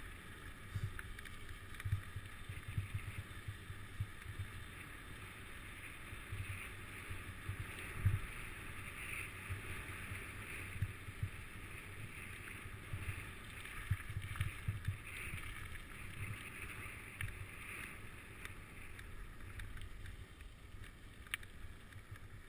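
Wind buffeting the microphone of a moving bicycle rider, with irregular low rumbling gusts over a steady hiss.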